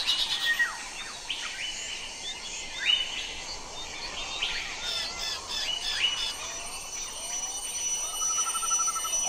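Birds chirping and calling in forest, with many short chirps and quick rising calls, and a fast trill about eight seconds in.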